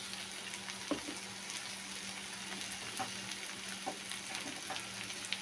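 Sliced bitter gourd and onions sizzling steadily in hot oil in a kadai, with a few faint clicks.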